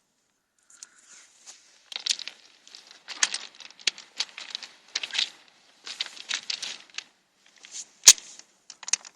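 Rustling and crackling, like dry vegetation being pushed through, in short irregular bursts about a second apart, with one sharp snap about eight seconds in.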